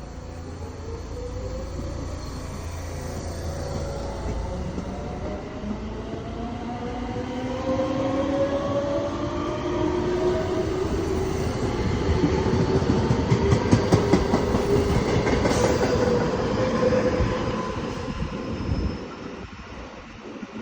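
Electric train accelerating under a GTO-thyristor VVVF inverter, its whine made of several tones rising in pitch as the train picks up speed. Wheels clatter over rail joints, loudest in the latter part, and the sound drops away about nineteen seconds in.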